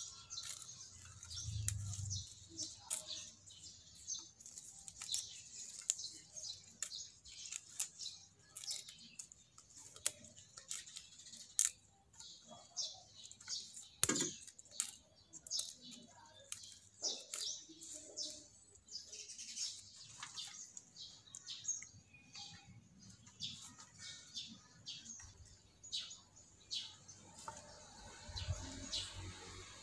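Small birds chirping over and over in short, high calls. One sharp knock comes about 14 seconds in.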